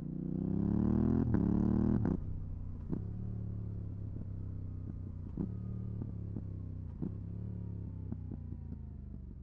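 Yamaha R7's 689 cc parallel-twin engine breathing through a full MIVV GP Pro exhaust with its dB-killer fitted. It idles, is revved once with the pitch climbing for about two seconds, then snaps off the throttle. It settles back to idle with scattered sharp ticks.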